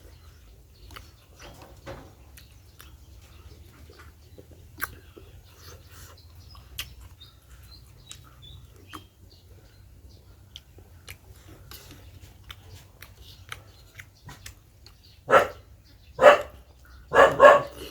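A dog barks four times near the end, loud and short, over faint scattered clicks earlier on.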